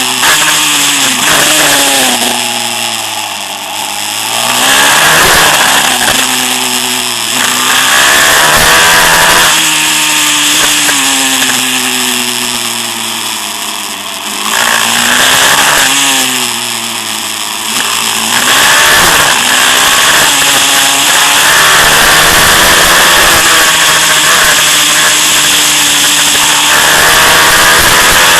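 Pitster Pro LXR pit bike's 190cc Daytona single-cylinder engine being ridden hard, its pitch rising and falling over and over as the throttle is opened and closed through the laps.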